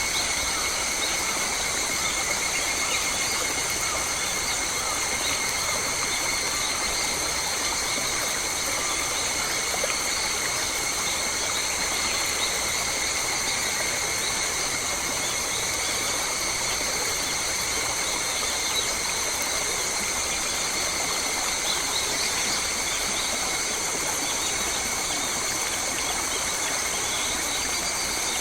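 Forest ambience: a steady high-pitched drone of several unchanging tones over a soft, even hiss, with faint scattered bird calls.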